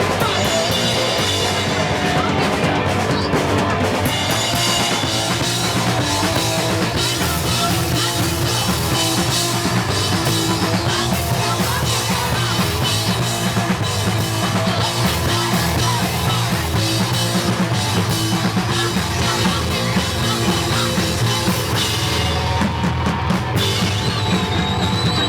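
Punk rock band playing live, its drum kit prominent in a loud, dense, unbroken wall of sound.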